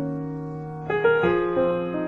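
Background piano music: held chords over a sustained low note, with new chords struck about a second in.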